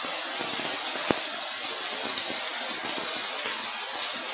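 Heavy rain falling as a steady hiss, with one sharp click about a second in.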